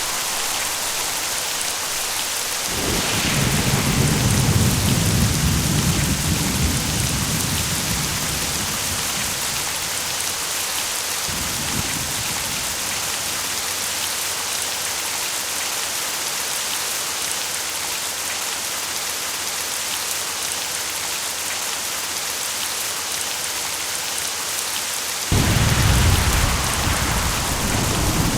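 Steady rain with thunder. A long rumbling roll begins a few seconds in and fades, and near the end a louder thunderclap breaks in suddenly and keeps rumbling.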